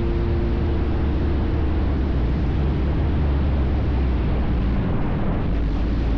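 Steady, heavy rumble of a motorcycle on the move, engine and road noise with no break.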